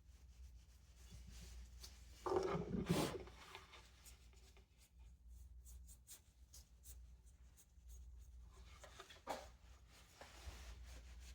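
A small brush scratching and rubbing over a box fan motor's windings to clear off dirt, with a louder scrape or knock of handling about two seconds in.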